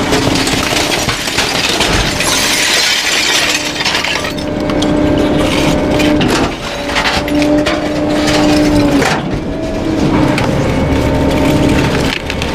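Garbage truck packer compacting bulky waste: wood cracking and splintering with glass breaking, loudest about two to four seconds in, over a steady hydraulic whine that drops out and comes back several times.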